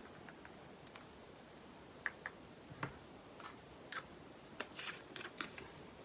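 Scattered light plastic clicks and taps from handling small bags of diamond-painting resin drills and their storage containers, with two sharper clicks about two seconds in.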